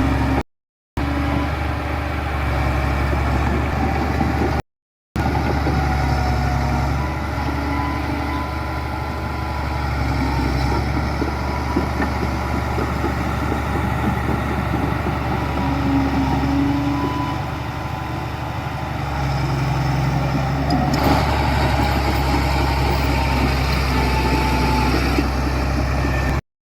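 Heavy diesel engines of earthmoving machinery, bulldozers or dump trucks, running steadily with a deep continuous drone. The sound drops out briefly twice in the first five seconds.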